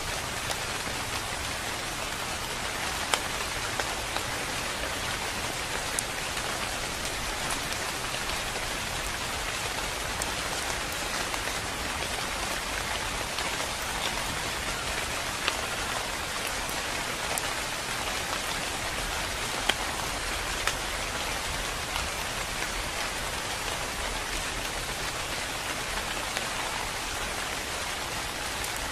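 Steady rain falling on tree foliage: an even hiss, with a few sharper single drop hits scattered through.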